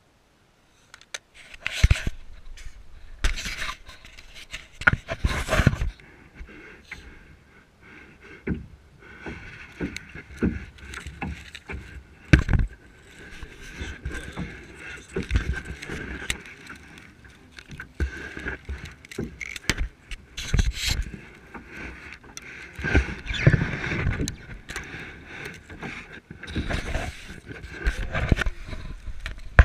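Kayak on the water, with irregular knocks, scrapes and splashes against the hull.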